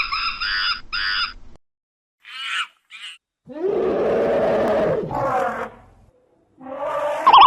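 A run of different animal calls, one after another: quick repeated high calls for about a second and a half, two short calls, then a longer harsh grunting call near the middle, and more calls near the end.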